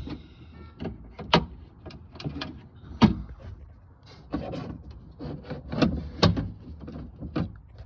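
Irregular clicks, taps and rattles of plastic and metal parts being handled inside a car door as the door lock assembly and its linkage rods are bent and worked loose by hand. A few sharper knocks stand out, the loudest about three seconds in.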